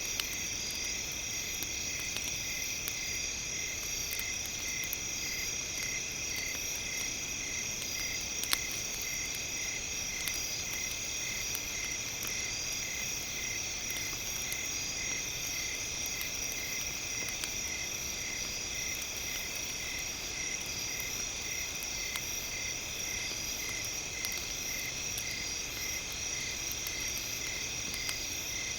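Campfire crackling with sparse small pops, one sharper pop about eight seconds in, under a steady high-pitched ringing layer of several tones, the lowest of them pulsing evenly.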